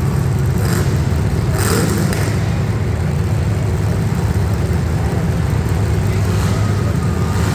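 Engines of demolition derby street stock cars running and revving as a dense, steady low rumble. Two short harsh bursts stand out about one and two seconds in.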